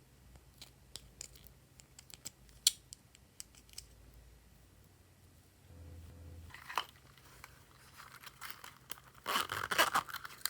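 Slime being handled and mixed: scattered small sticky clicks, then a louder crackling, crinkly stretch near the end.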